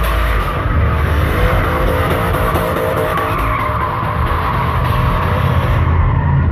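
Lowered pickup truck spinning donuts: its engine revving high while the rear tyres squeal and skid on the pavement without a break.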